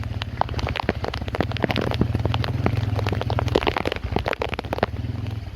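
Heavy rain, with many sharp, irregular drop hits close by over a steady low rumble.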